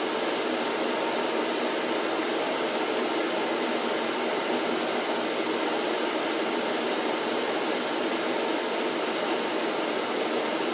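Vacuum cleaner running steadily, a constant even whooshing hum with no change in pitch or level.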